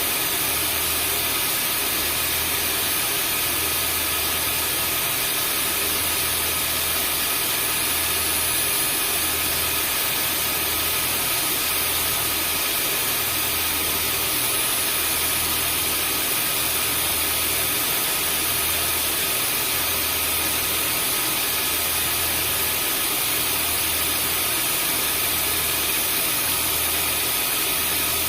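Vacuum cleaner running steadily: an even rushing hiss with a few high, fixed whining tones from the motor. Underneath, a low hum swells and fades about every two seconds.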